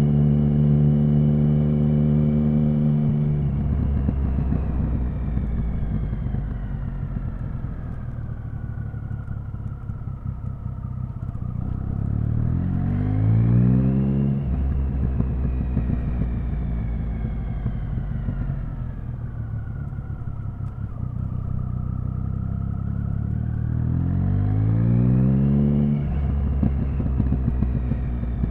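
Triumph Speed Triple's inline three-cylinder engine: holding steady revs, then dropping off and winding down slowly. It then pulls twice with rising revs, once about halfway through and once near the end, and each pull cuts off abruptly.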